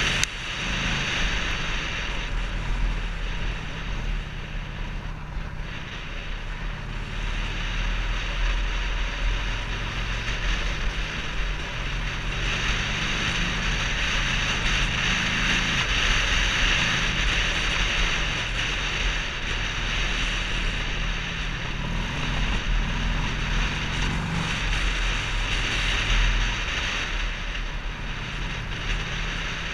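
Waterfall: water rushing steadily, with a constant low rumble underneath.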